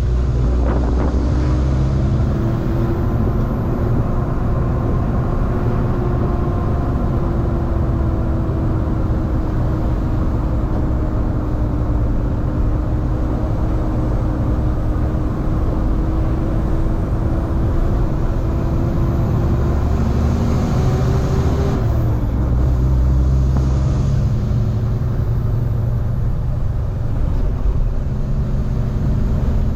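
Semi-truck's diesel engine and road noise while driving: a steady low drone whose engine tone drops and changes pitch about two-thirds of the way through.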